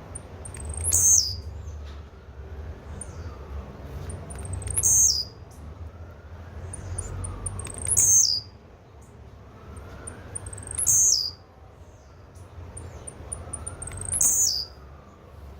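Blue-black grassquit (tiziu) giving its short high call five times, about every three seconds. Each call is a quick note falling in pitch, led by a few faint ticks, over a steady low hum.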